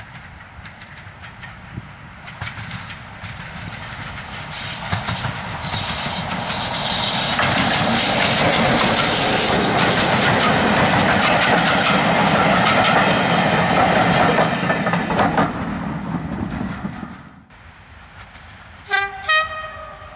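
Diesel-hauled train passing close by, its engine and wheel clatter over the rail joints building up, holding loud for several seconds and then fading away. Near the end come two short blasts of a locomotive horn.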